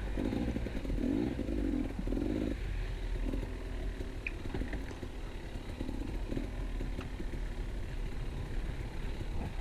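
A KTM 250 EXC two-stroke enduro motorcycle engine running at modest, varying throttle while riding over a rough trail, with some clatter from the bike.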